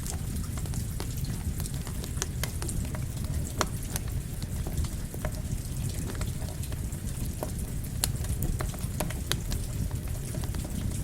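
Campfire crackling with rain falling: a steady low rumble under frequent sharp pops and crackles.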